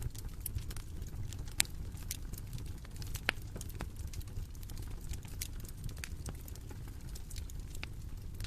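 Bonfire crackling: a steady low rumble of burning with frequent sharp pops and snaps, two louder pops about a second and a half in and a little past three seconds.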